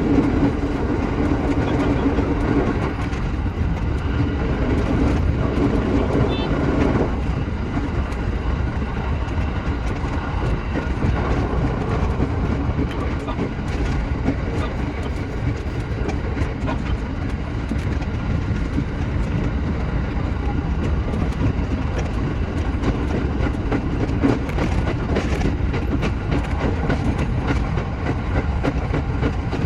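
Shinano Railway SR1 series electric train running along the line, heard from the cab: a steady rumble of wheels on rail, with a hum that fades out about seven seconds in.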